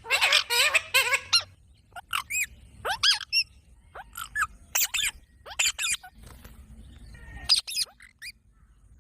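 Green parrot calling: a quick run of short, sharp squawks and chirps in the first second and a half, then single calls every half second or so until near the end.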